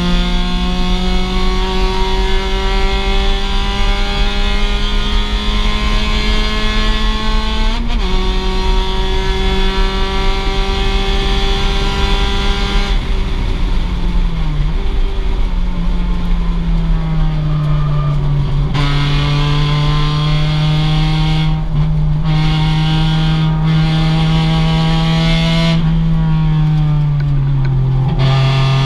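2006 Mazda MX-5's stock four-cylinder engine running hard in a race. The revs climb, drop sharply at a gear change about eight seconds in, and climb again. In the second half they fall away and shift several more times as the car lifts, brakes and accelerates.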